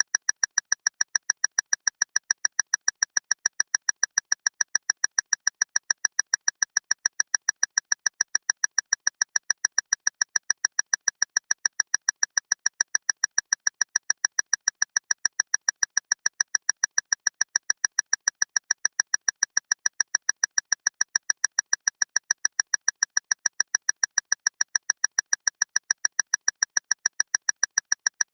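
Loud clock ticking fast and evenly, several short, high-pitched ticks a second, unchanging throughout.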